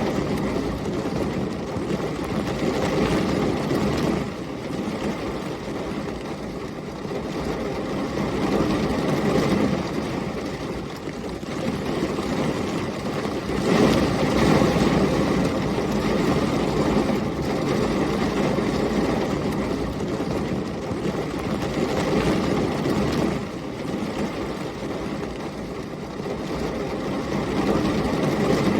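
Heavy rain and gusting storm wind: a dense, low rushing noise that swells and eases every few seconds, loudest about halfway through.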